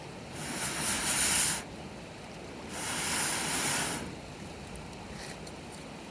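Wood campfire with two long hissing bursts of air blown onto it, each a little over a second, the first about half a second in and the second near three seconds in, then a few faint crackles from the burning wood.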